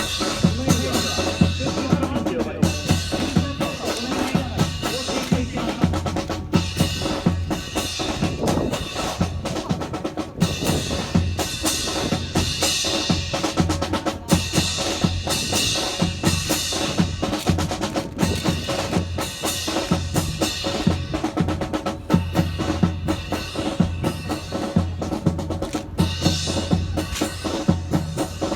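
Drum-led music accompanying a drill display: a steady bass drum beat with snare drum rolls, over sustained held tones, with many sharp clacks packed throughout.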